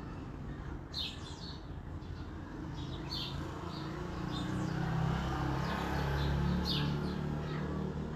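Songbirds chirping in short high calls every second or two. Under them a low, steady hum swells about halfway through and fades near the end.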